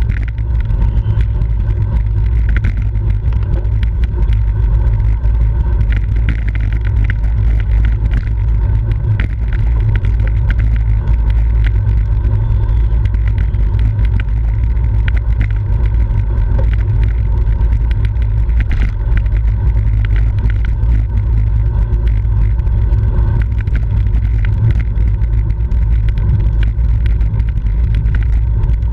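Wind buffeting the microphone of a camera carried on a moving bicycle, heard as a loud, steady low rumble throughout.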